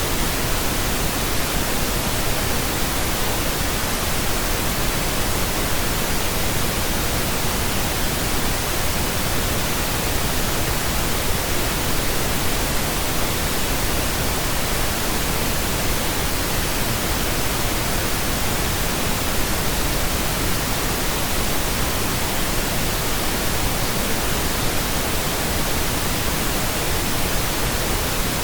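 Steady, unbroken pink noise: an even hiss with no tones, rhythm or changes.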